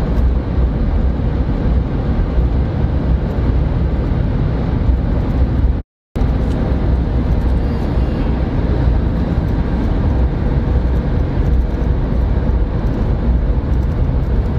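Steady road and engine noise of a moving car, heard from inside the cabin, with a low rumble, cut off briefly by a dropout about six seconds in.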